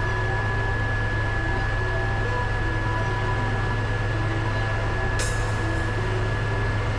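Aérospatiale Gazelle helicopter in flight: a loud, steady drone with a constant high whine above it.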